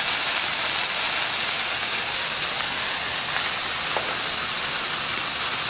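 Handheld sparkler burning with a steady fizzing hiss.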